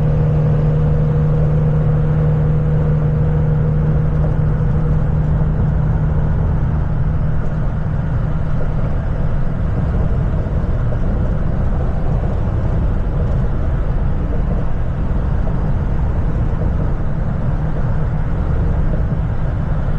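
Steady road and engine noise heard from inside a moving vehicle. A strong low hum dies away after about five seconds, leaving an even rumble of tyres and engine.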